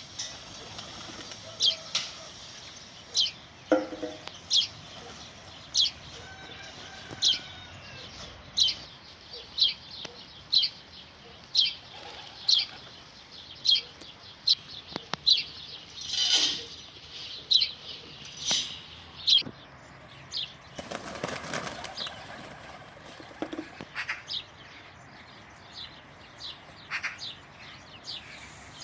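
A bird chirping over and over, one short high chirp about every second, growing fainter after about twenty seconds. Two brief rustling bursts of wing flaps come about halfway through and again a little later.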